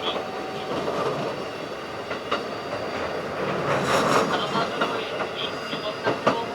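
Running noise of a Keikyu 1500 series field-chopper electric train at speed, heard aboard: a steady rumble of wheels on rail, with a few sharp clicks as the wheels pass over rail joints.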